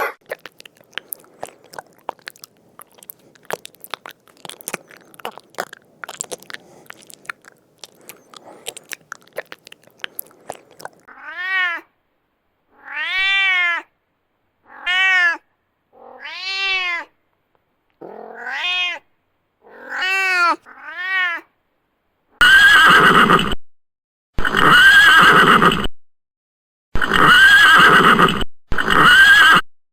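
An animal chewing, a fast run of crisp crunching clicks for about eleven seconds. Then come about eight short cries that rise and fall in pitch, a second or so apart, and from about two-thirds of the way in, louder, fuller animal calls in abruptly cut blocks.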